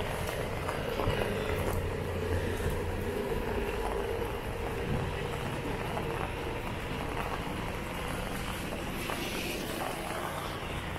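Steady light rain on a wet city street, with a low hum of distant traffic that is strongest in the first three seconds.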